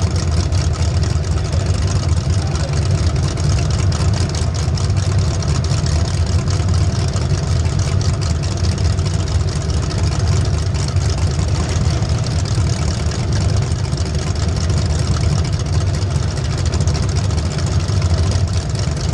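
Race vehicle's engine running loud and steady, with no clear revving up or down.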